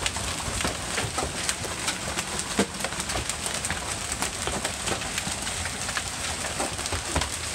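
Large hailstones, some the size of baseballs, pelting down hard onto vehicles and the street. The sound is a dense, irregular rattle of sharp cracks over a steady, rain-like hiss, with one louder crack about two and a half seconds in.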